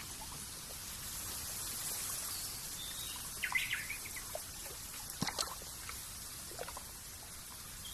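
Nature ambience: a steady high hiss with a few short bird chirps, a small cluster of them about three and a half seconds in, and scattered faint clicks like trickling drops.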